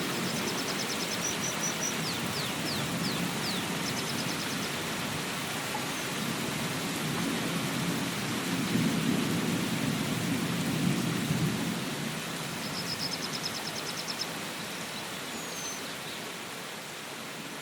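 Steady rain falling, with a low rumble of thunder that swells in the middle and fades. A few high, rapid trills come at the start, about four seconds in and near the end.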